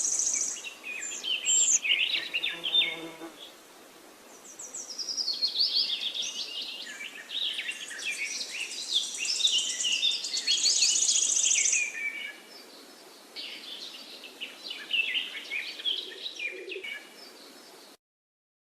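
Several birds singing and chirping together, with fast high trills and quick chirps, over a faint steady hiss of outdoor background. The sound cuts off suddenly near the end.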